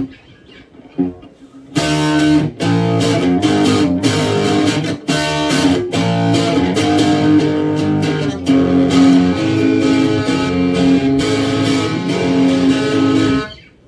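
Electric guitar played through a Boss DS-1 distortion pedal into a Fender Super Champ X2's clean channel. After a couple of quiet notes, loud distorted chords are strummed and held from about two seconds in, stopping just before the end.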